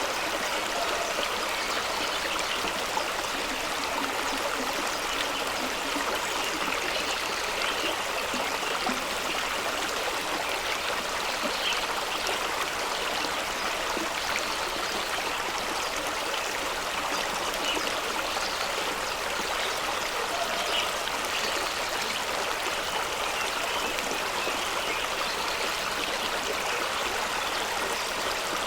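Fast-running stream rushing and splashing over rocks, steady and unbroken.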